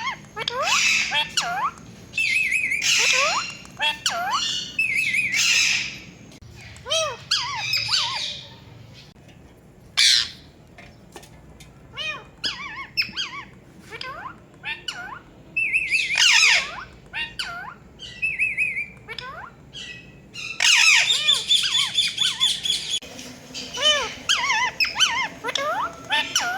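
Ringneck parrot squawking and chirping in repeated bursts of short calls that swoop quickly up and down in pitch. A long, busy run of calls starts about three-quarters of the way through.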